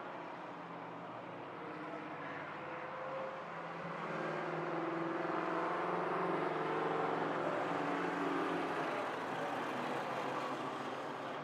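A vintage straight-eight race car engine running under way, growing louder about a third of the way in, strongest in the middle, then easing off slightly.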